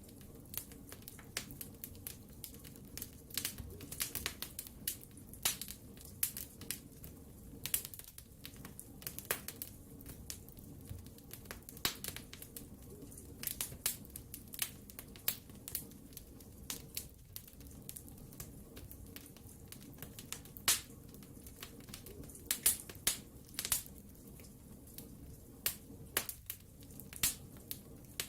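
Wood fire burning in a fireplace, with frequent sharp, irregular crackles and pops over a low steady rumble.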